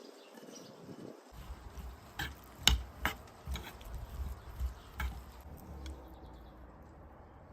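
A handful of sharp clicks and knocks over a low rumble, the loudest a little under three seconds in.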